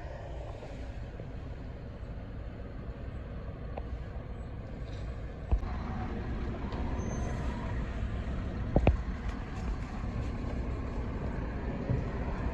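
Road traffic with heavy trucks: a steady low rumble that grows louder about halfway through, with a couple of sharp knocks.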